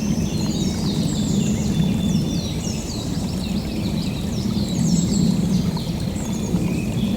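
Several birds singing together in many quick, falling whistled notes, over a steady low rushing noise.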